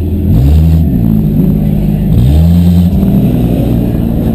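Demolition derby car engine revving hard twice, each rev rising then dropping back, over a steady engine drone.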